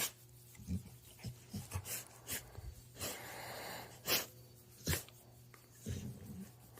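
A dog making a string of about ten short breathy sounds, with one longer one about three seconds in.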